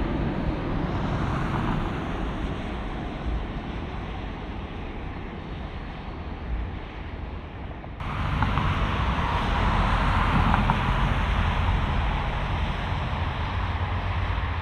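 Four-engine jet noise of an Airbus A380 climbing away after takeoff, a heavy steady rush that slowly fades, then suddenly comes back louder about eight seconds in with a faint whine, with wind buffeting the microphone.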